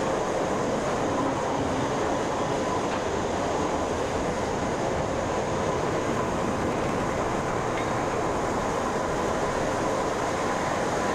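Cog railway railcar running steadily: an even rumble and hiss with a faint steady tone above it.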